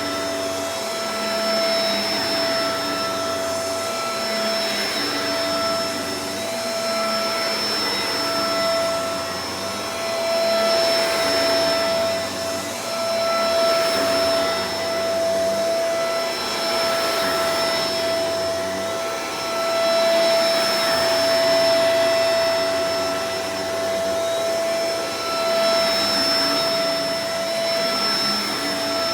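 Shark Professional Powered Lift-Away DLX (NV586) upright vacuum cleaner running continuously: a steady high motor whine over rushing airflow, the loudness gently swelling and dipping every couple of seconds.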